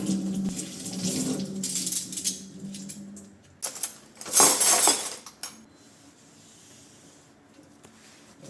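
Kitchen sink tap running with a steady hum, shut off about three seconds in. A few clinks of dishes follow, then a brief loud rush of water about a second later.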